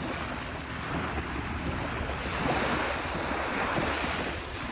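Ocean waves washing onto a beach, the surf's hiss swelling a little past halfway through, with wind rumbling on the microphone.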